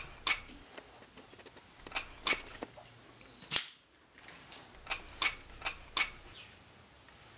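Light, sharp clinks, about a dozen at irregular intervals, each with a brief ring, like cutlery or glass being knocked. About three and a half seconds in comes a single louder, short rushing burst, the loudest thing here.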